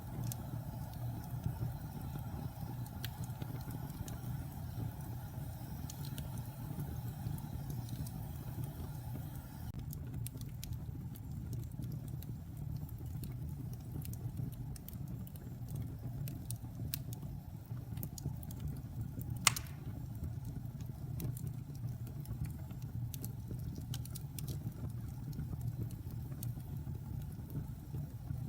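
Wood fire burning in a fireplace: a steady low rumble of the flames with scattered small crackles and one sharp, loud pop about two-thirds of the way through.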